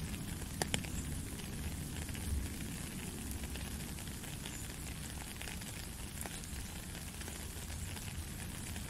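Light drizzle falling in a forest: a steady fine hiss of rain dotted with small drip ticks, with two sharper ticks less than a second in.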